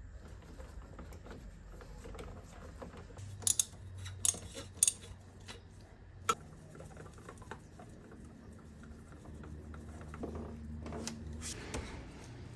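Metal hand tools and parts clinking and knocking while working on a motorcycle, with a handful of sharp clinks in the first half over a low steady hum.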